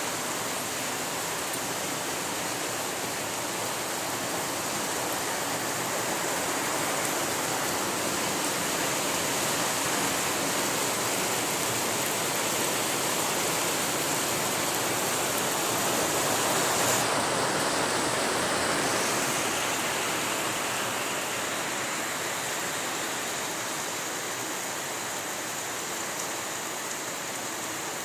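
Steady rain falling, an even hiss that grows a little louder about two-thirds of the way through, then eases.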